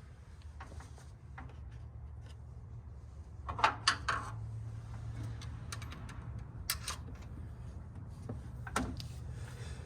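Scattered sharp metallic clicks and knocks from hand work on an engine's valve train, with the loudest cluster about three and a half seconds in. A steady low hum runs underneath.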